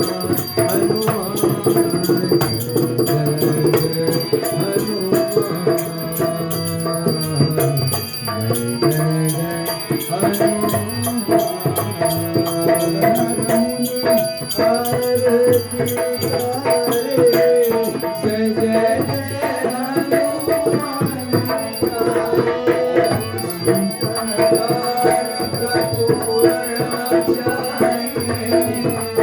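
Hindu arti devotional song: voices singing with hand-drum and rattling hand-percussion accompaniment in a steady rhythm.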